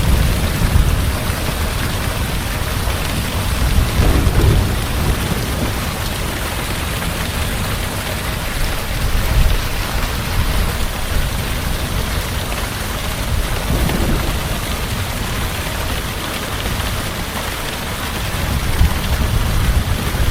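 Heavy rain pouring steadily, with low rolling thunder that swells several times.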